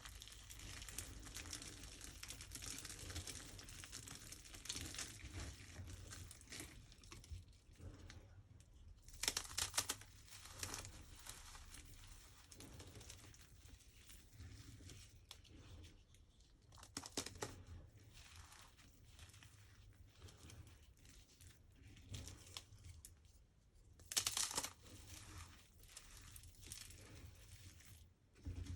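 Hands crushing and crumbling dry, puffed microwaved soap in a run of crisp crinkling crunches, with louder bursts about nine, seventeen and twenty-four seconds in.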